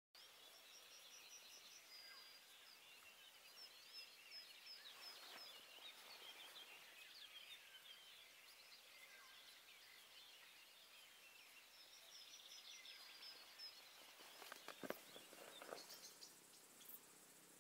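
Faint birdsong in a forest: scattered high chirps and runs of quick repeated notes. A few sharp clicks come about three quarters of the way through.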